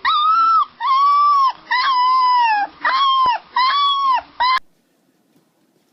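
Golden retriever puppy whining in about six high, drawn-out cries, each rising and falling in pitch. The cries stop abruptly about four and a half seconds in.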